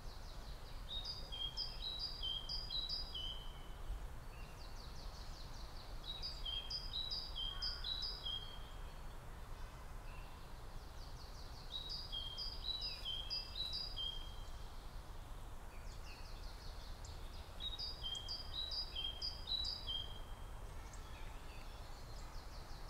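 A songbird singing the same short song four times, about every five to six seconds, each song a quick run of high notes stepping downward, over a steady low background rumble.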